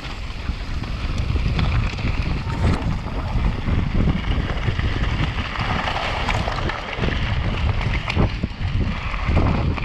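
Wind buffeting the microphone of a rider's camera on a fast mountain bike descent, a rough, fluctuating rumble, with scattered knocks and rattles from the bike and a stretch of louder tyre noise on the trail about six seconds in.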